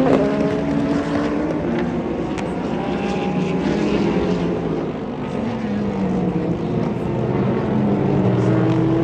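Endurance race cars running past at speed, their engine notes overlapping, one falling in pitch about halfway through and another rising near the end.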